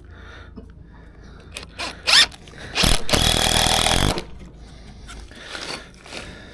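Cordless power drill-driver running in one burst of a bit over a second, driving a screw into timber to fix the formwork, after a couple of short scrapes.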